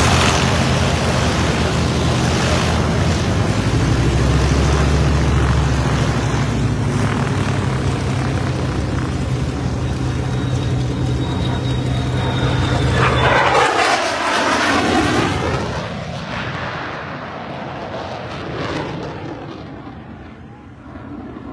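F-35 fighter's Pratt & Whitney F135 afterburning turbofan: loud, steady jet noise that sweeps down in pitch about 14 seconds in as the jet passes, then fades away.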